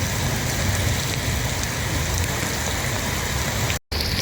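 Heavy rain falling steadily, a dense even hiss of rain on hard surfaces. The sound breaks off for a moment near the end.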